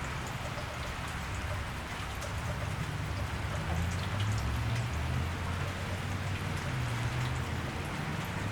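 Steady rain falling on a wet street, with individual drops ticking. A low rumble comes in under it a few seconds in.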